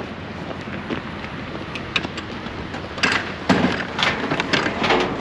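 Steady wind rush on the microphone, then a quick run of clattering knocks and rattles from about three seconds in.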